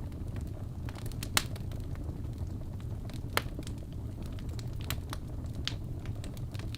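Wood fire burning in a fireplace: irregular sharp crackles and pops over a steady low rumble of the flames, with two louder pops about one and a half and three and a half seconds in.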